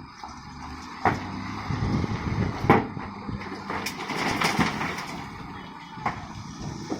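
Heavy road-construction machinery running, a steady engine hum broken by several sharp clanks and knocks.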